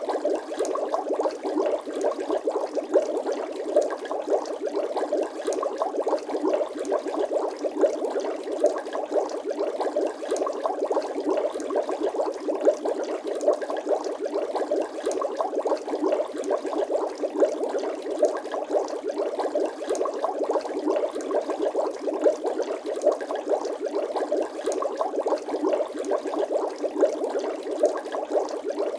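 Bubbling water sound effect: a steady, dense stream of small bubbles popping and gurgling.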